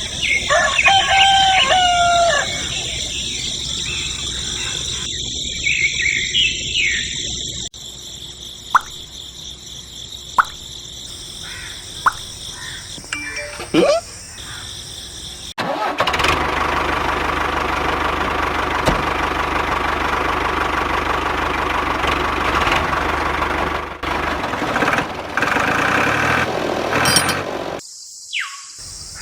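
A rooster-like crow at the start, a few sharp clicks, then a small motor running steadily for about eight seconds before cutting off.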